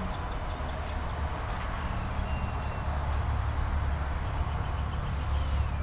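Steady low rumble of a running vehicle, with an even hiss over it.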